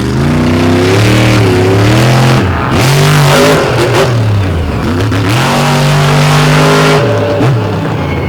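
Monster truck engine revving hard in repeated bursts, the pitch climbing and falling several times, then holding high for about two seconds before dropping off.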